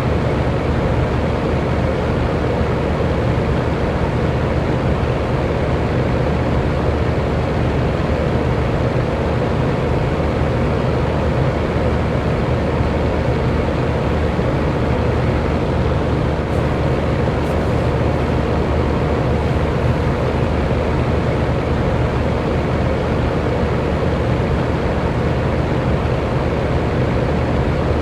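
Electric fan running steadily: an even rush of moving air with a faint, constant motor hum underneath.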